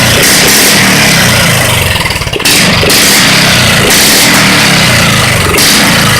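Mini bike's 178 cc Subaru single-cylinder engine, governor removed, running loud through a straight-pipe exhaust, its pitch rising and falling with the throttle. There is a brief drop about two seconds in before it picks back up.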